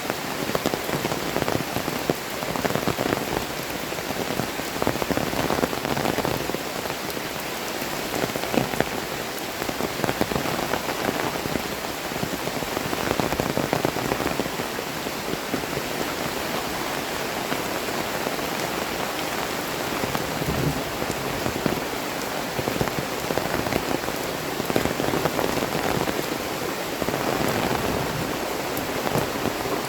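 Heavy tropical rain falling steadily, a dense patter of drops on the ground and surroundings.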